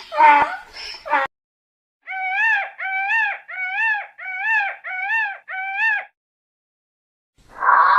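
An animal's high-pitched call, repeated six times in an even rhythm, each call rising and then falling in pitch. Before these, the tail of a different call ends about a second in.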